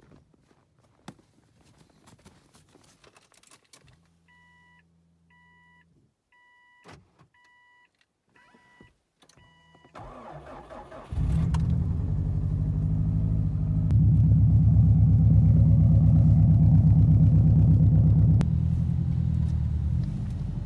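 Keys jangle faintly, then a car's warning chime beeps about once a second. About ten seconds in, the Subaru WRX's turbocharged flat-four engine cranks and starts, then idles fast and loud for a few seconds before dropping to a lower idle near the end.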